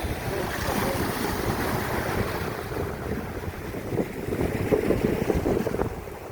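Sea waves washing, with wind buffeting the microphone in a low, gusty rumble that grows louder near the end.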